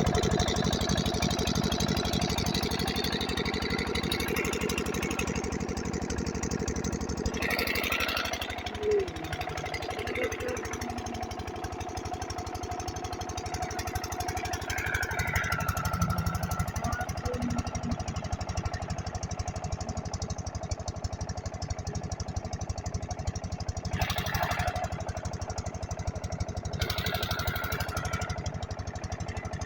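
Kranti stationary diesel engine running steadily to drive a water pump, with a fast, even beat. A few brief bursts of hissing noise come through over it, once early and twice near the end.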